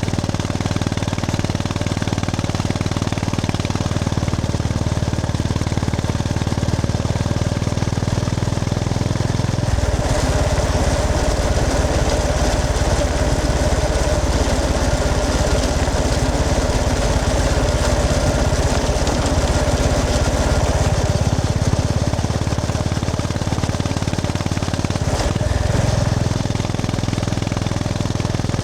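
Honda GB350S's air-cooled single-cylinder engine running while the motorcycle is ridden. Its note changes sharply about ten seconds in, then changes back after a brief break near the end.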